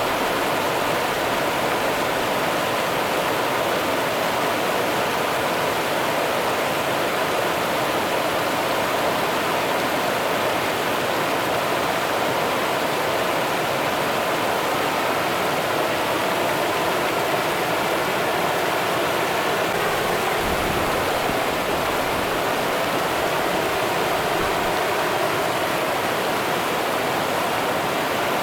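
Rio Grande river water running steadily, a constant rushing of flowing water.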